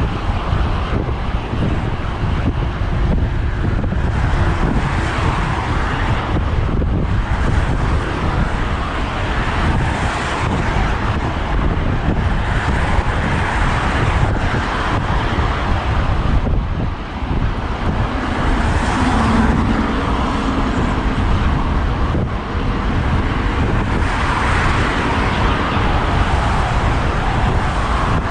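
Road traffic heard from a moving bicycle, with wind on the microphone. Passing cars swell and fade every few seconds over a constant low wind noise.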